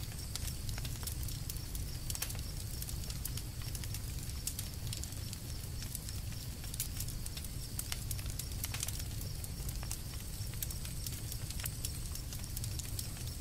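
Campfire of burning wood crackling, with frequent irregular sharp pops and snaps over a steady low rumble.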